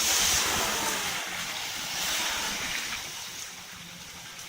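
Off-road vehicle stuck on its front axle, with a hissing spray of water and mud that fades away over the last second or so.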